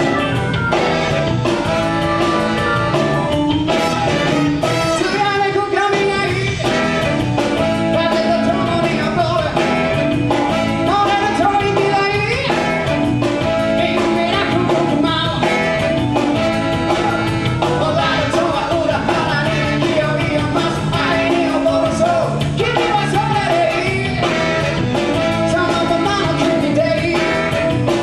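Live band playing an upbeat rhythm-and-blues song with singing, guitar and a steady beat.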